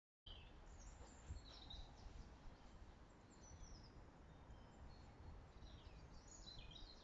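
Near silence outdoors: a faint low rumble with small birds chirping now and then, short high falling calls that come in a cluster near the end.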